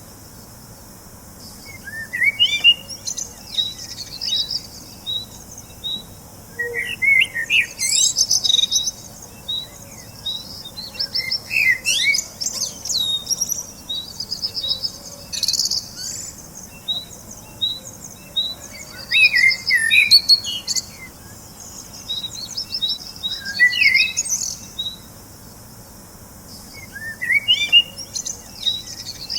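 Birds singing: short, warbling song phrases that come every few seconds, over a steady run of short high chirps.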